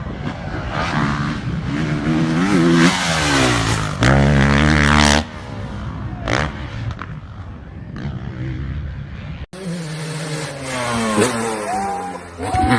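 Motocross bike engines revving hard, their pitch rising and falling again and again as the riders open and close the throttle. The sound changes abruptly about nine and a half seconds in, where another bike's engine takes over.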